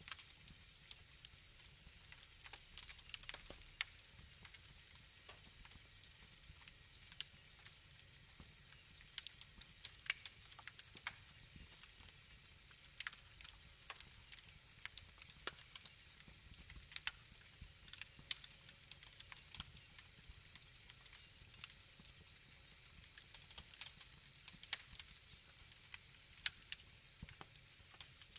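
Wood fire crackling, with irregular sharp pops and snaps over a soft, steady hiss.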